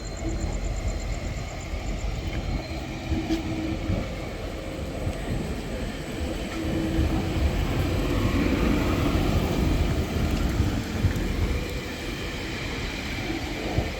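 Tilt Train passenger train running in along the track: a continuous rail rumble with a few faint steady tones, growing louder toward the middle and easing a little near the end.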